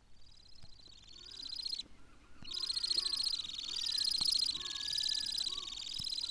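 Temminck's stint song: a fast, high trill that wavers up and down in pitch. It starts faint, breaks off briefly about two seconds in, then resumes loud and unbroken, with fainter, lower calls underneath.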